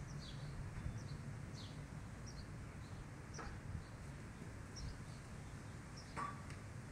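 Wild birds chirping: short, high, falling calls scattered throughout, with two louder calls that sweep lower, a little past the middle and again near the end. A faint steady low rumble sits underneath.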